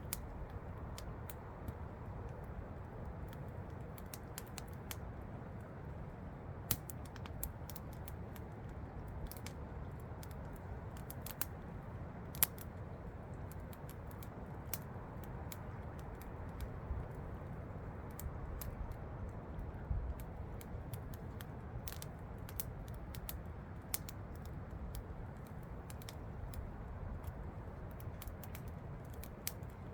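Wood campfire crackling, with irregular sharp pops and snaps, over the steady rush of a waterfall.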